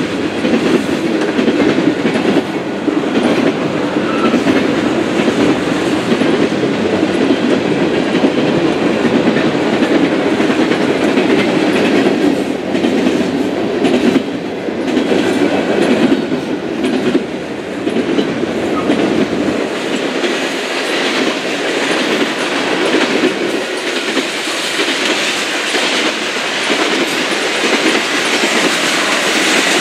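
Freight train's tank cars and covered hoppers rolling steadily past: a continuous rumble of wheels on rail with a running clickety-clack of wheels over rail joints.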